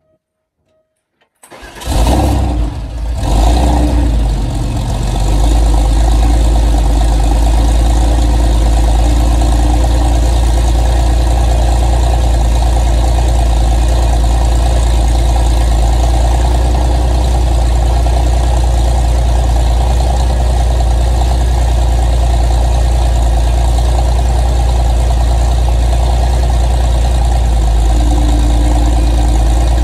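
Porsche 964 911's air-cooled flat-six cold-starting about a second and a half in: it catches suddenly, surges unevenly for a few seconds, then settles into a steady idle.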